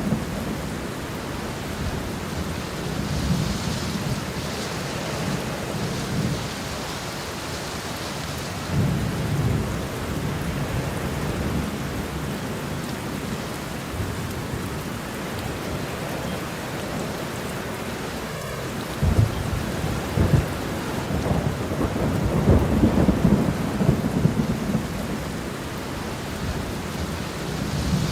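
Steady rain falling, with rolling thunder rumbling low underneath. A louder run of thunder rumbles comes in about two-thirds of the way through.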